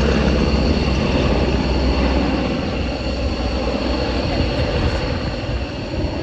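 Aircraft engine noise from a plane flying past: a loud deep rumble that eases off after about two and a half seconds.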